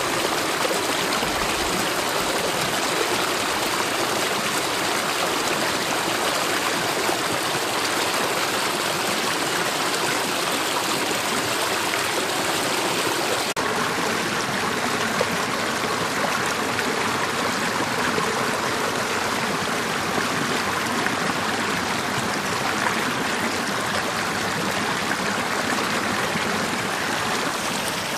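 Mountain valley stream rushing steadily, an even, unbroken sound of flowing water.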